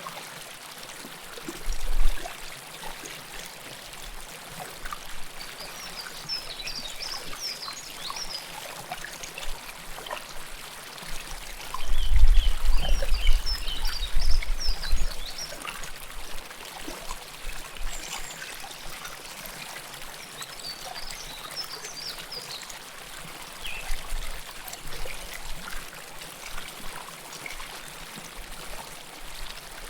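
River water flowing and trickling close to the recorder, a steady rushing with small splashes. Clusters of short high chirps come in a few times, and low rumbles rise about two seconds in and again from about twelve to fifteen seconds in.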